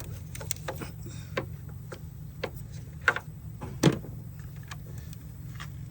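Scattered clicks and knocks of hand tools and metal parts as a car battery's hold-down bracket is taken off, the loudest knock about four seconds in, over a steady low hum.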